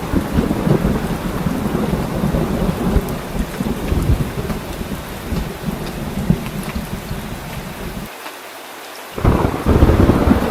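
Heavy rain with a continuous low rumble of thunder. Near the end the rumble drops away for about a second, then comes back louder.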